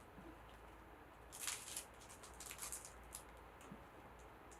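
Faint rustling and a few soft ticks of picture-book pages being handled and turned, over a low room hum.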